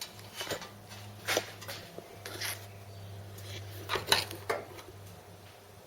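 Metal clinks and light knocks, about six of them spread irregularly, as a Ford Cortina wiper motor and linkage assembly is handled and turned over onto its back.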